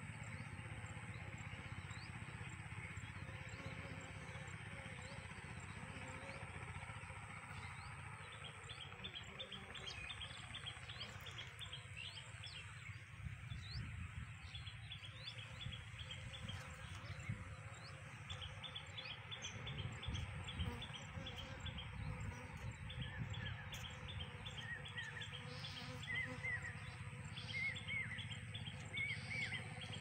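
Small birds chirping: runs of quick, high chirps begin about eight seconds in, with short rising chirps near the end. A steady low rumble runs underneath.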